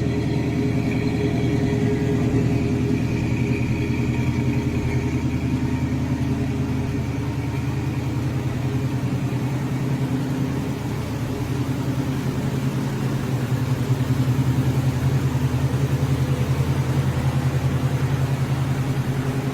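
Small-block Chevy V8 idling steadily, with a fast, even exhaust pulse.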